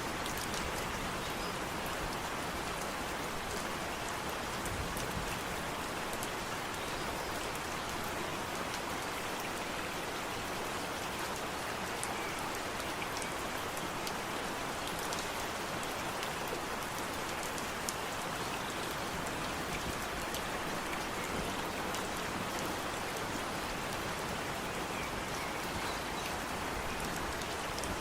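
Steady rain falling on foliage and ground, a continuous even hiss with scattered individual drop ticks.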